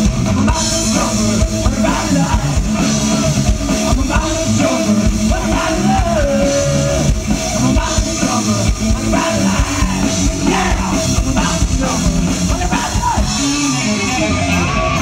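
Loud rock music played live by a band: drum kit and amplified strings, with some singing.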